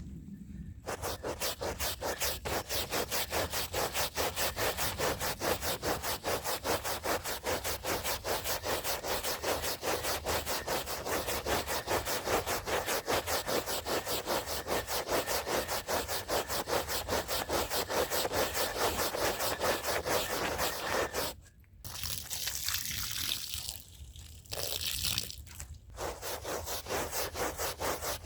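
Stiff brush scrubbing a wet rug by hand in fast, even back-and-forth strokes, about four a second. About 21 seconds in the strokes stop for a few seconds of steadier hissing, then resume near the end.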